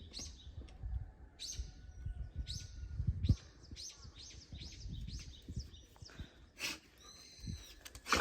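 A small bird calling over and over, short chirps that fall in pitch about twice a second, over low rumbling and soft knocks.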